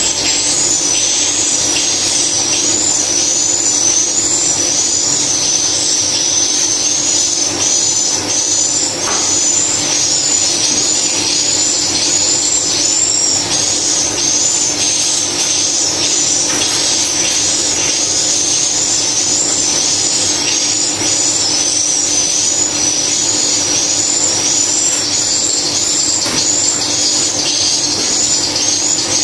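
Swiftlet lure call played through swiftlet-house tweeters: quick high chirps repeating steadily over a constant hiss and low hum.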